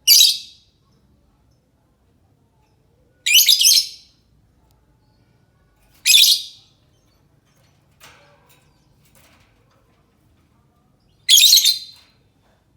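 Lovebird giving shrill, chattering calls: four short bursts spaced a few seconds apart, with a faint softer sound between the third and fourth.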